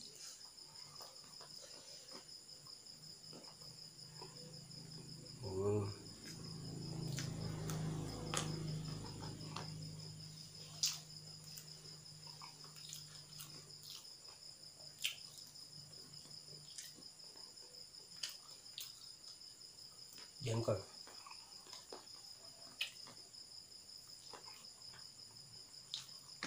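Crickets chirping, a steady high-pitched trill, with scattered short clicks and smacks of eating and chewing.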